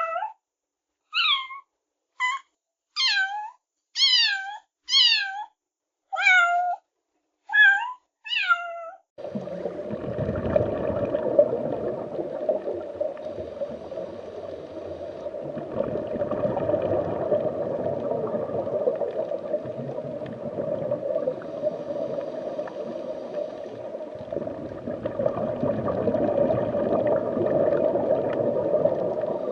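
A cat meowing about nine times in quick succession, each call short, high and falling in pitch, with silence between them. After about nine seconds the sound cuts abruptly to a steady rushing noise.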